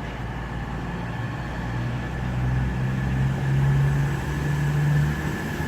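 Class 222 Meridian diesel-electric unit's underfloor diesel engines throttling up to pull away: a steady low engine hum rising in pitch and getting louder from about a second and a half in, then holding.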